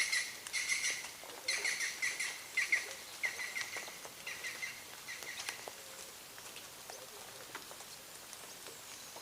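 A bird calling in quick clusters of short, high chirps, repeated about twice a second, that fade out about halfway through, with faint light ticks scattered throughout.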